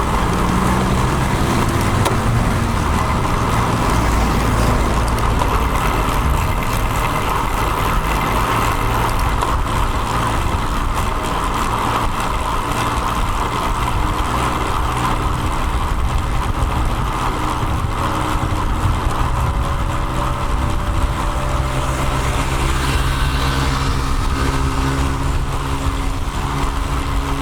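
Steady riding noise on a road bike's mounted action-camera microphone: wind and tyre rush with low rumble, and motor traffic running alongside. Near the end a steady vehicle engine tone joins in.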